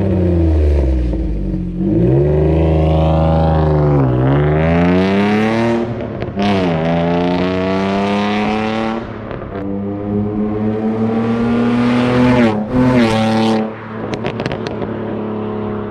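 Ford Mondeo ST220's 3.0-litre V6 with its catalytic converter removed (decat), pulling hard with the revs climbing steadily, dropping at two gear changes, then climbing again. Near the end it comes off the throttle and the revs fall away, with a few crackles from the exhaust.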